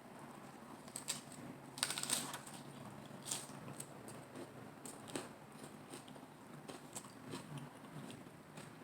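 Close-miked crisp crunching and crackling of a lettuce-leaf salad wrap being bitten and chewed, in scattered crackles with the loudest cluster about two seconds in.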